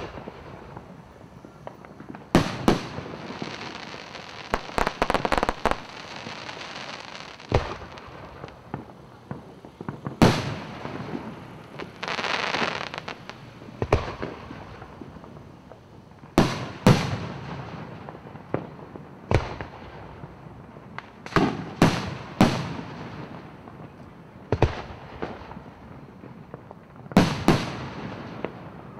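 Aerial firework shells bursting, a sharp boom every few seconds and sometimes two in quick succession. A spell of dense crackling comes about five seconds in, and another around twelve seconds in.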